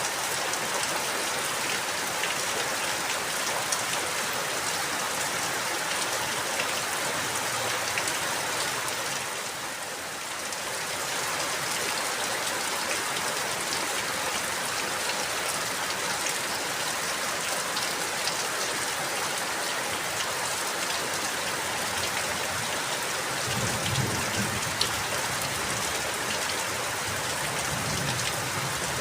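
Steady rain falling, an even hiss with scattered drop taps, briefly easing about a third of the way through, with a low rumble near the end.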